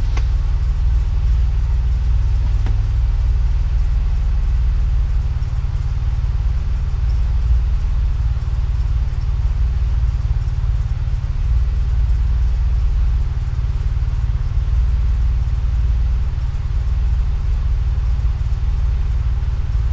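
A 2005 Chevrolet Impala 9C1's 3.8-litre V6 idling, heard from inside the cabin as a steady low rumble.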